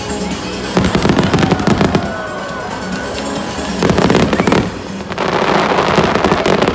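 Fireworks going off in three volleys of rapid bangs and crackles, the last a dense run of crackling nearly two seconds long, with music playing underneath.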